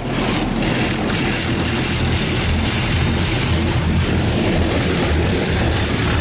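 Touchless automatic car wash machinery working over the car, heard from inside the cabin: a loud, steady rushing noise with a low rumble.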